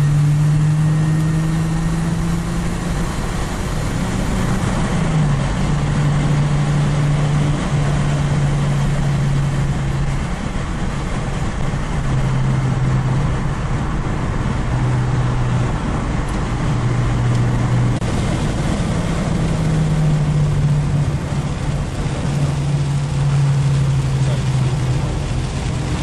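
Turbocharged PRV V6 of an MVS Venturi 200, heard from inside the cabin, cruising with a steady drone whose pitch steps a little up and down with throttle. Under it, a constant hiss of tyres and spray on a rain-soaked road.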